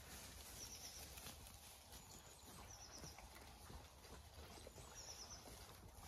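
Near silence in the open countryside: a few short, high bird chirps come and go, with faint soft steps on leaf litter.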